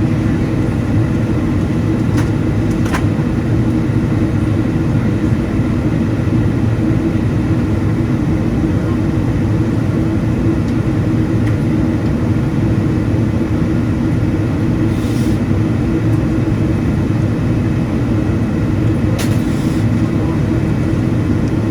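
Steady in-flight cabin noise of a Boeing 777-200ER: an even, low rumble of airflow and its GE90-92B turbofan engines, with a few faint steady tones.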